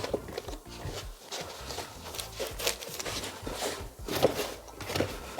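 Clamps being taken off a glued speaker bracket on a car door panel: a run of irregular clicks and knocks with some rubbing as the parts are handled.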